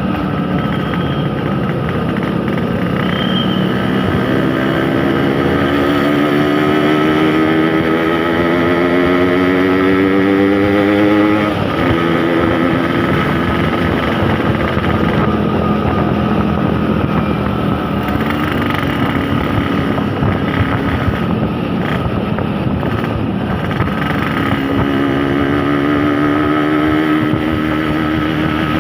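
Yamaha RX-King 135 cc two-stroke single-cylinder motorcycle engine running under way: its pitch climbs steadily for about ten seconds as it accelerates, drops suddenly, holds steady, and climbs again near the end.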